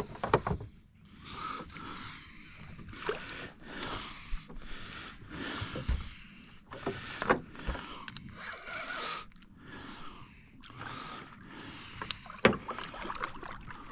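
Water sloshing and splashing in short, repeated swells, with scattered knocks and clicks, as a hooked carp is played and brought to the landing net beside a boat.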